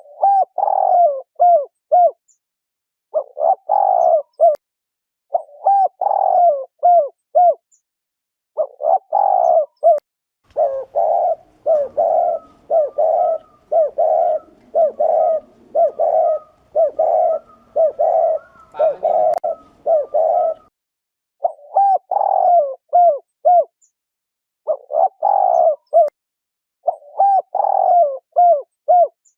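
Spotted dove giving the 'gù' coo, the call used to stir up male doves. It comes in repeated groups of short, pitched coos with brief pauses between them. From about ten to twenty seconds in, the coos run on almost without a break.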